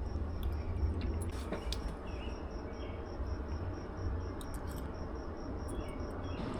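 An insect chirring high and steadily in a fast, even pulse, over a low rumble, with a few small clicks.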